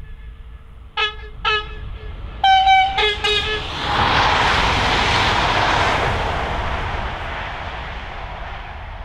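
Alstom Régiolis B 84500 bimode train sounding its two-tone horn in a series of short blasts, then the rush of the train passing at speed, fading as it runs away.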